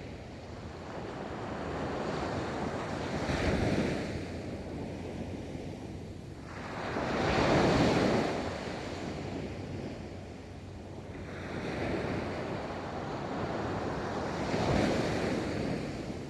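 Ocean waves breaking and washing up a beach, rising and falling in repeated surges, the loudest about halfway through, with wind on the microphone.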